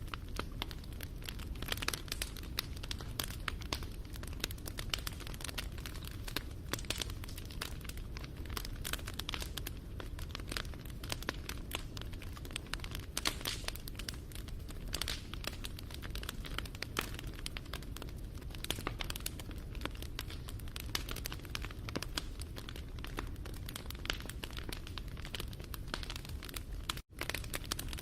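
Wood fire crackling and popping, with many sharp snaps over a low steady rumble. The sound cuts out for an instant near the end.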